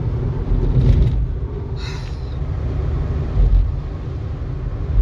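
Steady low road rumble of a moving vehicle, heard from inside the cabin.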